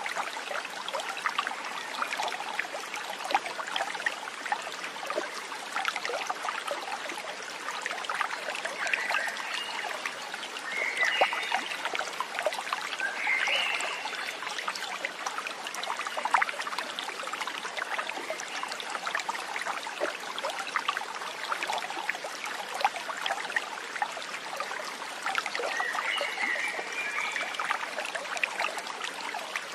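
A small stream trickling and babbling steadily over stones. A few short chirping calls are heard about a third of the way through and again near the end.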